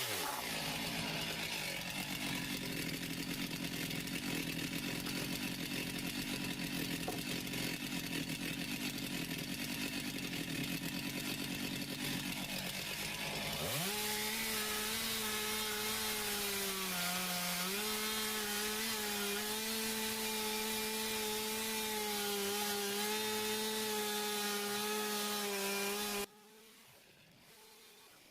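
Chainsaw running at high revs while bucking slab wood. Its pitch drops just at the start, holds with a busier, rougher sound for about thirteen seconds, then climbs back to a steady high-pitched run with a brief dip. The sound cuts off abruptly near the end.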